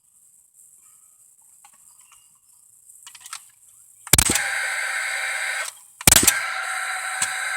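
Paslode cordless gas framing nailer firing twice into lumber, about two seconds apart: each shot is a sharp bang followed by the steady whir of the tool's fan clearing out the exhaust gas.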